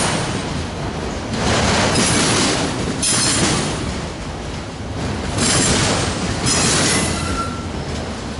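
Freight train rolling past close by, a steady rush of wheels on rail that swells and eases every couple of seconds as the cars go by, with a short wheel squeal near the end.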